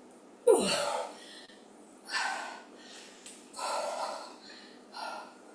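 A woman breathing hard from exertion during weighted squat-and-press reps: four forceful exhales about a second and a half apart. The first and loudest, about half a second in, carries a short grunt that falls in pitch.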